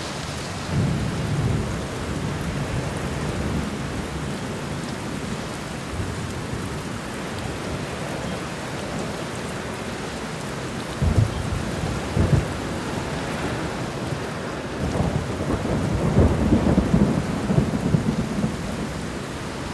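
Steady rain falling, with rolls of thunder: a few low rumbles early, two sharper cracks about halfway through, and a longer, louder rumble rolling on near the end.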